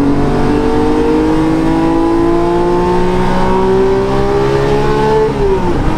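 Porsche GT3's naturally aspirated flat-six with an aftermarket Brooke Race Exhausts system, heard from inside the cabin under hard acceleration. The engine note climbs steadily in pitch through a long pull in one gear, then the revs fall away quickly near the end.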